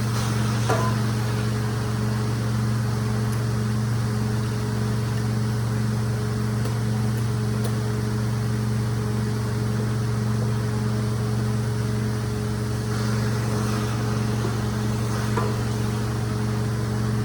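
Rug-cleaning machine's motor running with a steady, even hum, with a few faint clicks about a second in and near the end.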